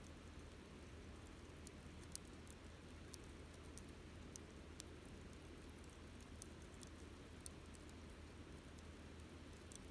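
Wood campfire crackling faintly: sharp, irregular pops and snaps, the loudest about two and four seconds in, over a low steady rumble.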